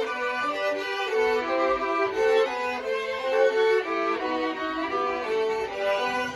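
A trio of violins playing a melody together, the bowed notes moving in step in several voices and changing every fraction of a second.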